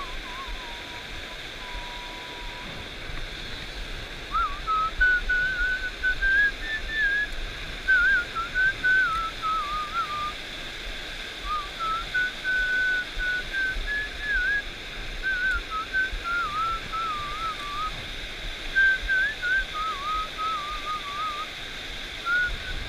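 A person whistling a wavering tune, breaking off briefly about three seconds in and then carrying on, over the steady rush of a stream.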